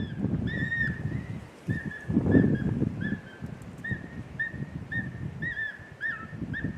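Recorded coyote submissive whines playing from a game caller: a string of short, high-pitched, up-and-down whining yips, about two a second. Strong wind rumbles on the microphone underneath, gusting hardest about two seconds in.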